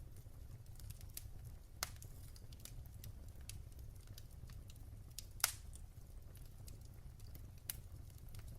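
Fireplace fire crackling: scattered small snaps over a low steady rumble, with a few louder pops. The sharpest pop comes about midway.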